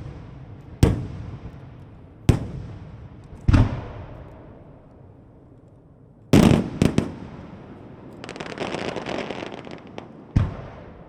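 Aerial firework shells bursting in a starmine display: separate booms every second or so, each with a long fading echo. About six seconds in comes a louder burst with quick follow-up bangs, then a second or two of dense crackling from crackling stars, and one more boom near the end.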